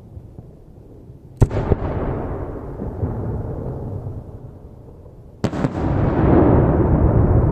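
Aerial firework shells bursting twice, about four seconds apart: a sharp bang about a second and a half in and another near the end, each followed by a long rolling rumble of echo, the second louder.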